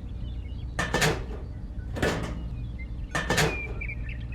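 Sharp clinks and knocks of hard small objects, about five in all and roughly a second apart, over a steady low hum.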